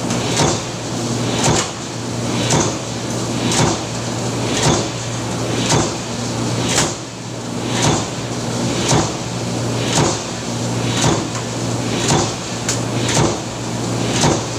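Power press cycling in steady production, stamping with a sharp clunk about once a second over the continuous hum of its motor.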